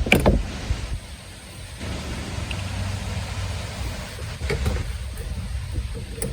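A sharp metal knock as a socket works on a bolt deep in a truck's fender well, then a low steady rumble with a few light clicks.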